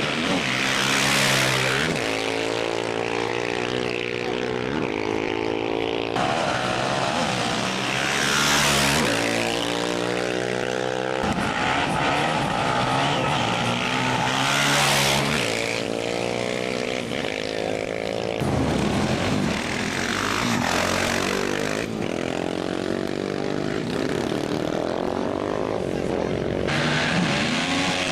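Off-road race motorcycle engines running hard, their pitch repeatedly rising and falling as they rev, with a loud rush of noise every several seconds.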